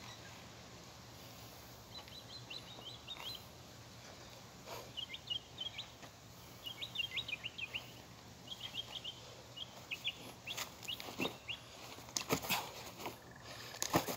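A bird chirping in quick runs of short high notes for most of the stretch; in the last few seconds several sharp clicks and scrapes as a weighted rucksack is gripped and handled, these being the loudest sounds.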